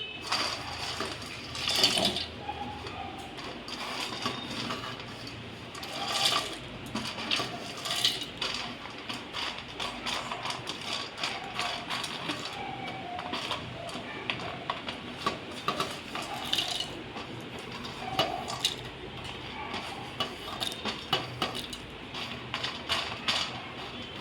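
Kitchen clatter of dishes and nuts being handled, with scattered small clicks and knocks. The mixer-grinder is not running.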